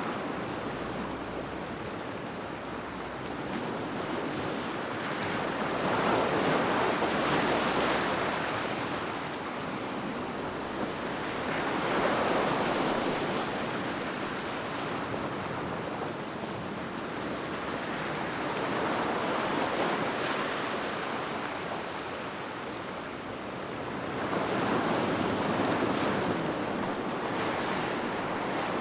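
Sea waves breaking and washing on the shore, the surf swelling and falling back about every six seconds.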